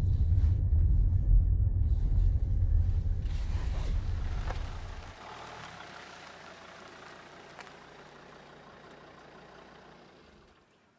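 A car driving, heard from inside: a low rumble that drops away about five seconds in as it stops, leaving a faint hiss that fades out.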